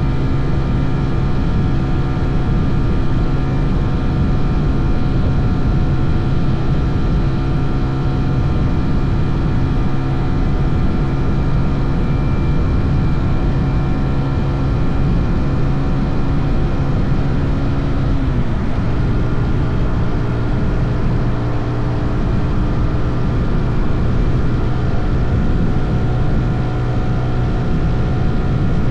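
SYM NH 180 motorcycle engine running steadily under way, with a low rushing rumble. The engine note shifts about eighteen seconds in, as with a change of speed or gear.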